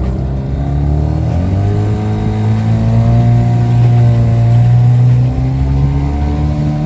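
Motorboat engine running under throttle: its note steps up about a second and a half in, holds steady, then eases down in two steps near the end.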